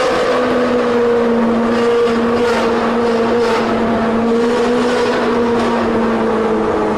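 Sports car engine and exhaust held at high, steady revs, a loud sustained tone that wavers slightly and drops a little near the end.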